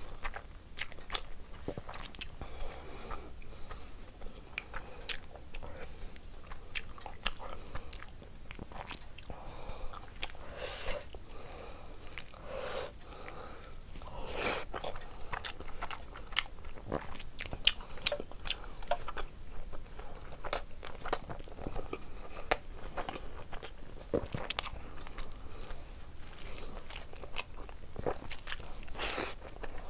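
Close-miked eating sounds: wet chewing and lip smacking of rice with egg and prawn curry eaten by hand, with many small irregular clicks and squishes and a few louder smacks.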